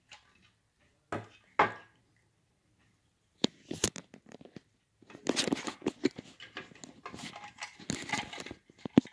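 Handling noise of a fire-alarm strobe's plastic parts being fitted back together: a few separate knocks and sharp clicks, then a few seconds of busy rustling and scraping, with one more sharp click near the end.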